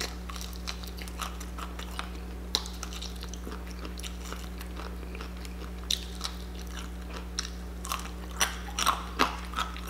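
Close-up biting and chewing of crispy fried chicken, with crackly crunches of the breading that are sparse at first and come more often in the last couple of seconds, over a steady low hum.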